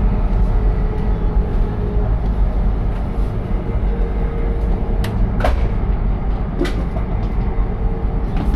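Steady low rumble of a moving vehicle, with a faint steady hum and a few sharp clicks about five to seven seconds in.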